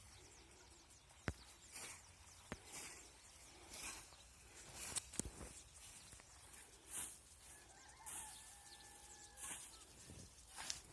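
Faint open-air countryside ambience with a few sharp clicks and brief rustling bursts. Near the end there is one held animal call of about a second and a half.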